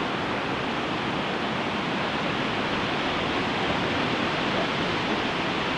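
Ocean surf breaking and washing on a beach: a steady, even roar with no single wave crash standing out.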